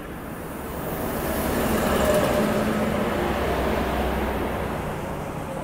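A train passing, its rumble growing to its loudest about two seconds in and then fading away.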